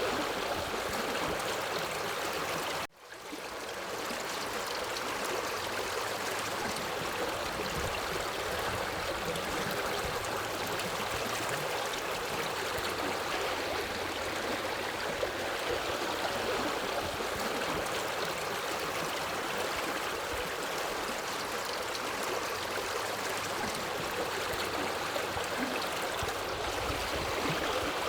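River water rushing and gurgling over rocks in a steady flow. About three seconds in, the sound cuts out for a moment and fades back in.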